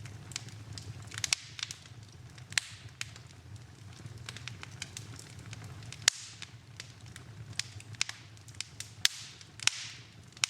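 Wood fire in a fireplace, crackling, with irregular sharp pops, several of them loud, over a low, steady rumble.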